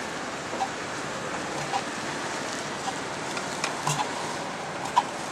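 Single-cylinder two-stroke hot-bulb semi-diesel engine of a 1921 Lanz Bulldog tractor running slowly after being reversed to turn the other way: uneven sharp knocks, a little under one a second, some with a low thump, over a steady hiss.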